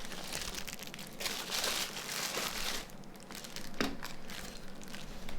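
Handling noise from fitting small parts into a Nokia 9210 phone: a crinkling rustle lasting about a second and a half in the middle, then a sharp click a little before the end.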